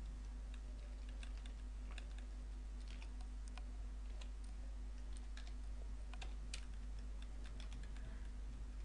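Computer keyboard typing: faint, irregular keystrokes over a steady low hum.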